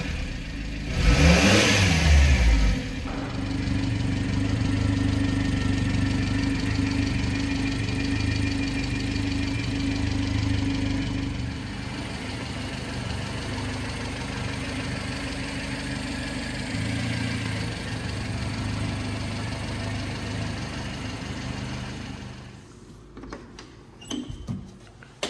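1995 Subaru Sambar truck's small four-cylinder engine revved up and back down once, then idling steadily. The engine sound stops a few seconds before the end, followed by a few light clicks and a knock.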